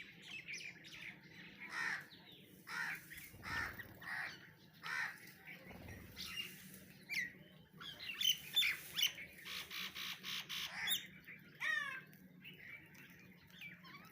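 Birds calling: a string of short chirps and harsher calls, a dense, louder run of rapid notes about two-thirds of the way through, then a quick falling series of notes.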